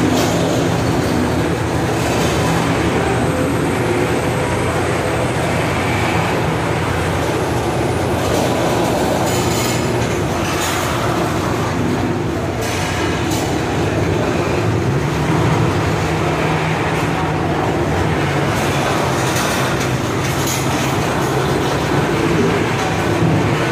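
Freight train of covered hopper cars rolling past: a steady, loud rumble of steel wheels on rail, with scattered sharp clacks around the middle and again near the end.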